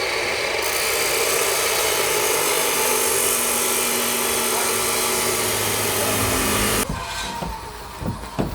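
A power tool runs steadily with a dense, hissing noise, then cuts off abruptly about seven seconds in. A few sharp knocks follow near the end.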